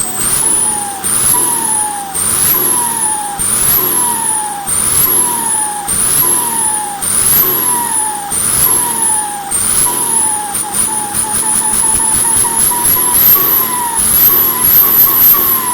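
Holset turbocharger whistling on an engine being revved in short blips about once a second, so the high whistle spools up quickly and sinks away each time, with a hiss as it winds down. About two-thirds of the way through the blips come quicker and shorter, then lengthen again.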